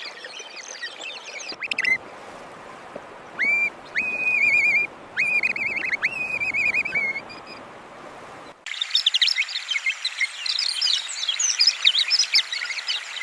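Bird calls: about four loud calls, each sweeping up and then holding a wavering, trilled note. About two-thirds of the way through the sound cuts abruptly to a dense chorus of many birds chirping.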